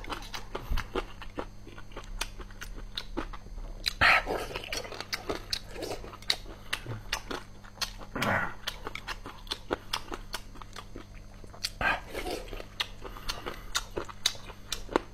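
Close-miked chewing of sauced boneless chicken feet: a dense run of small crisp crunches and wet mouth clicks, the tendons crunching when bitten, with a few louder wet mouth sounds about four, eight and twelve seconds in.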